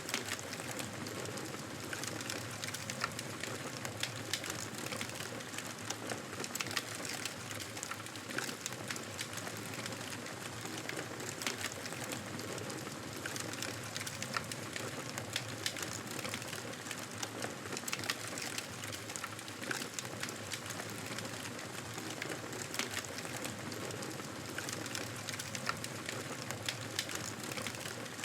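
Wood fire burning in a fireplace: a steady rush of flames with frequent small crackles and pops scattered throughout.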